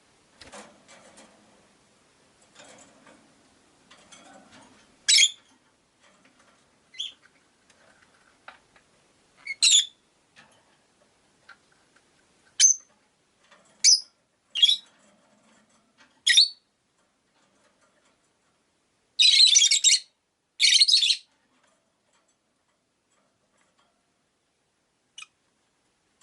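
Rosy-faced lovebirds calling: a string of sharp single chirps, one every second or two, then two longer harsh screeches in quick succession about three-quarters of the way through.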